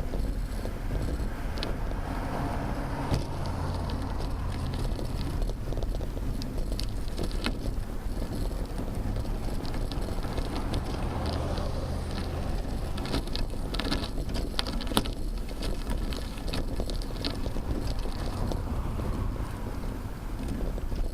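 Wind on a bicycle-mounted camera's microphone over a steady low rumble of road and traffic noise, swelling twice as if vehicles pass. Scattered clicks and rattles come thickest a little past the middle, with one sharp knock about fifteen seconds in.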